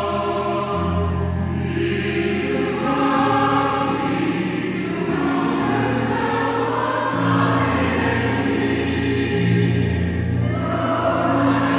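Mixed choir singing sustained, held chords in several parts with piano accompaniment, in a reverberant church.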